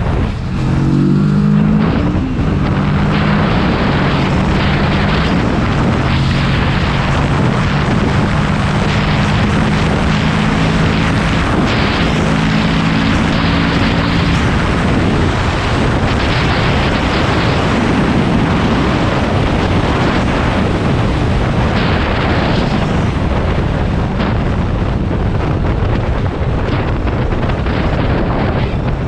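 Motorcycle engine and wind rush while riding. The engine note rises as the bike accelerates in the first couple of seconds and holds steady through about the first half, then is mostly buried under steady wind noise on the microphone.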